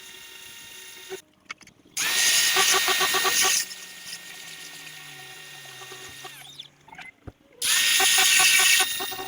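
Pressure washer spraying in two bursts of about a second and a half each, starting about two seconds in and again near the end: a loud hiss of water jet over the steady whine of the machine.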